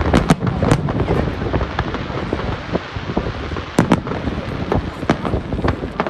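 Fireworks bursting: a scatter of sharp bangs and crackles, loudest just after the start and again about four seconds in, over a steady low rumble.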